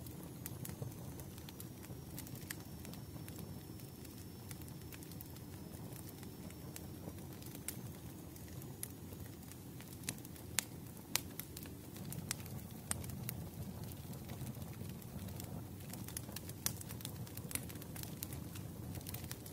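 Wood fire crackling: irregular sharp pops and snaps over a low steady rumble of the burning logs.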